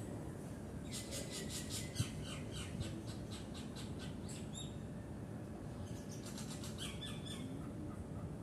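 Small garden birds calling: two runs of rapid, evenly repeated high chirps, one about a second in lasting a couple of seconds and a shorter one near the end, over a steady low hum, with a single sharp click about two seconds in.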